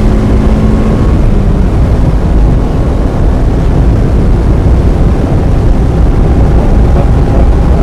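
A 1995 Mazda Miata's 1.8-litre four-cylinder engine running at speed on a wet track, heard from inside the car over heavy, steady low road and wind noise. A clear engine tone fades away about a second in.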